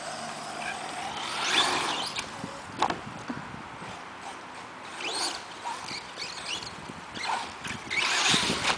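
Electric RC trucks driving, their brushless motors whining in rising sweeps as they speed up, over a rough running noise, with a sharp knock about three seconds in.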